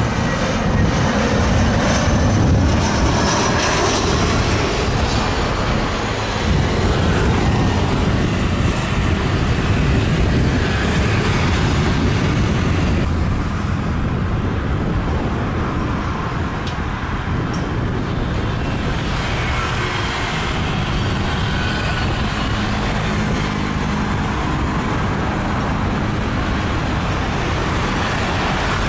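Jet airliner noise with a high whine that fades out over the first few seconds, giving way to steady road-traffic rumble, with a low engine hum from a heavy vehicle in the second half.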